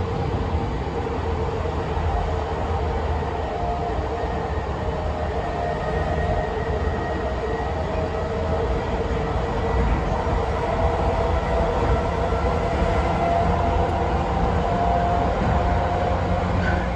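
Running noise inside a JR Chūō Line electric train travelling through a tunnel: a steady, loud rumble with a few faint, steady whines above it.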